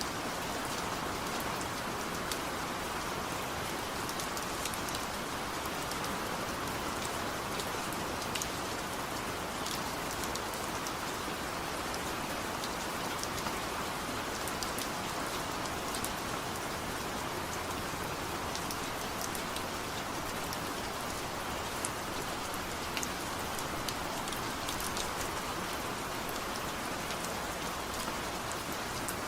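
Steady rain falling, an even hiss with scattered droplet ticks, and no thunder.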